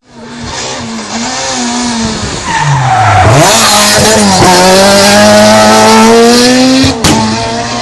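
A rally car braking into a hairpin, the engine revs dipping and blipping on the downshifts, then accelerating hard out of the turn with the revs climbing steadily, loudest in the second half, with tyre noise through the bend. The sound cuts off suddenly near the end.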